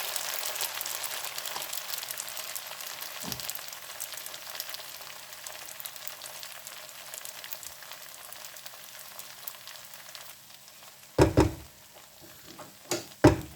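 Spaghetti in seafood sauce sizzling in a pan, a crackling hiss that slowly dies down. Near the end come a few loud knocks.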